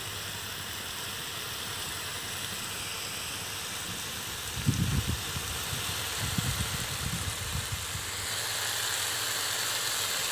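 Onions, tomatoes and peppers sizzling in a large aluminium pan: a steady frying hiss, with a few low thuds and rumbles around the middle.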